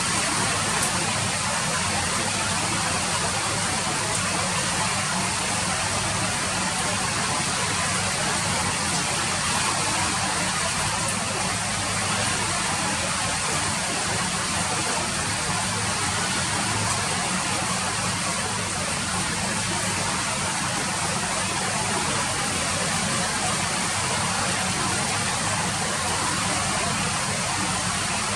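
Rain falling steadily, an even hiss that neither swells nor breaks.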